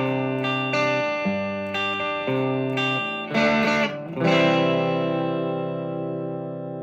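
Gretsch solid-body electric guitar on its bridge pickup, played through an amp: chords changing about every half second, a quick strummed chord a little over three seconds in, then a last chord struck about four seconds in and left to ring and slowly fade.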